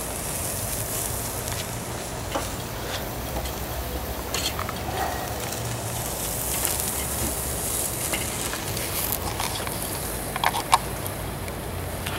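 Burgers sizzling on a grill, a steady hiss with scattered small pops. A few sharp clicks come about ten seconds in.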